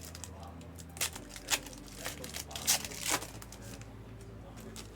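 Trading card pack wrappers being torn open and crinkled by hand: a handful of short, sharp rustles in the first three seconds or so.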